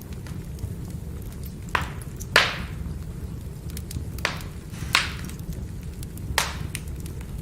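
Firewood burning: a steady low rumble of the fire with sharp crackling pops, about five clear ones, the loudest about two and a half seconds in.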